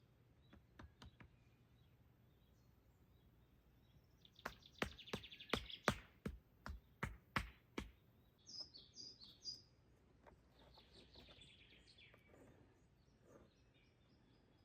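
Bird chirps and calls, with a run of about ten sharp clicks or taps, about three a second, in the middle.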